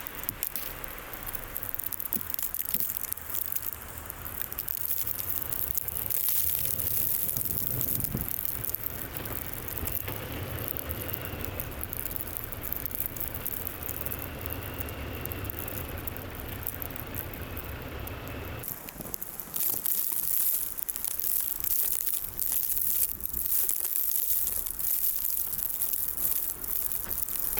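Car driving slowly over an unplowed, snow-covered road, tyres crunching through the snow over a steady low rumble. About nineteen seconds in the rumble stops and irregular crunching and crackling continue.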